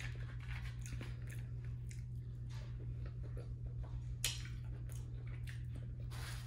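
Close-up chewing of fried chicken nuggets: irregular wet mouth smacks and small crunches, with one sharp click about four seconds in. A steady low hum runs underneath.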